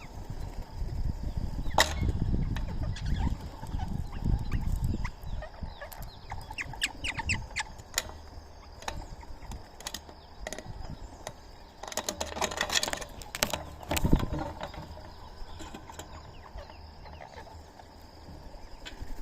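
Indian ringneck parrots at a feeding spot: scattered short calls and chirps over many small clicks, with a busier flurry of calls about two-thirds of the way through.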